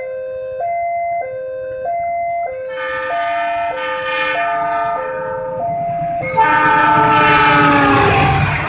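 Level-crossing warning alarm alternating between two tones, switching about every 0.6 s. From about three seconds in a train horn sounds and grows louder; a little past halfway it blares at its loudest, its pitch falling as the train passes, over the rising rumble of the train.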